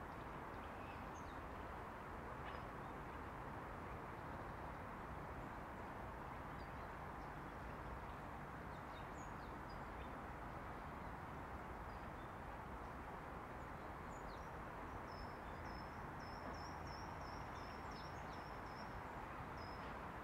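Small birds chirping and calling over a steady background rush. Near the end one bird gives a quick run of repeated high chirps.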